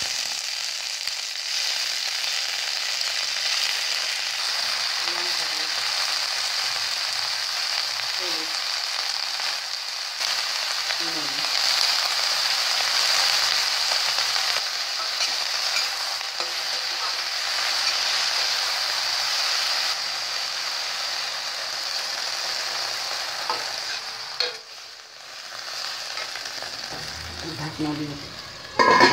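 Chunks of brinjal sizzling steadily in hot oil in a stainless steel kadai; the sizzle drops off about 25 seconds in. Near the end, a loud clatter as the glass lid is set on the pan.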